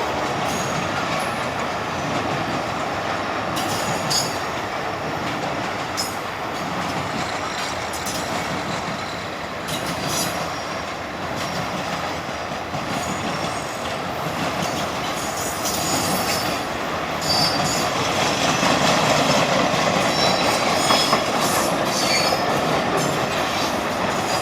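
Freight cars of a Norfolk Southern work train loaded with old rail roll steadily past with a continuous wheel rumble. Short high wheel squeals and clanks come and go throughout, and the sound grows louder in the last several seconds.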